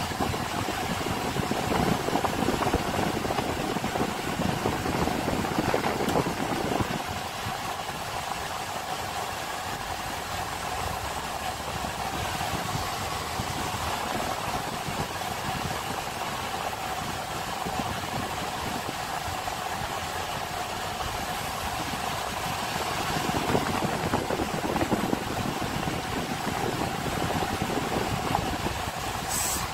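Car engine and road noise heard from inside the cabin while driving slowly in town traffic, a steady rumble with a faint hum. It is louder for the first several seconds and again for a stretch near the end, with a short click just before it ends.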